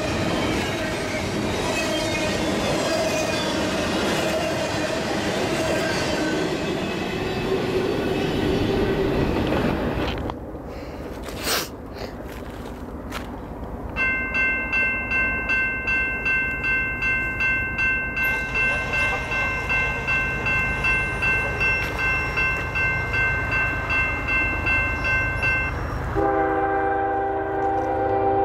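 Freight cars rolling past with steady wheel noise and squealing flanges. After a break, a grade-crossing bell rings steadily about twice a second, and near the end a locomotive's air horn sounds a chord as the train approaches the crossing.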